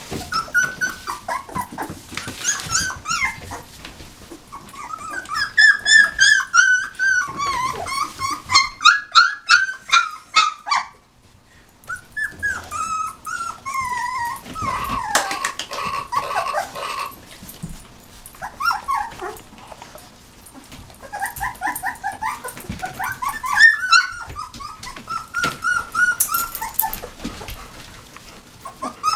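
Young puppies whimpering and squeaking in repeated high-pitched cries, in bouts with a short lull partway through.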